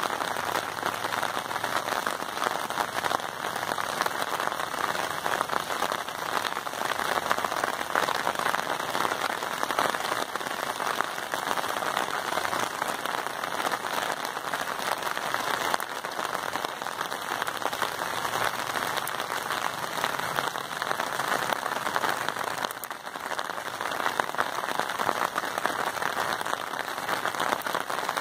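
Steady rainfall: a dense, even hiss of countless drops pattering on surfaces.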